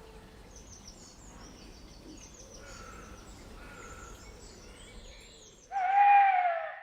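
Faint birdsong ambience of small, high chirps. Near the end a louder, high-pitched call lasting about a second, sliding slightly down in pitch.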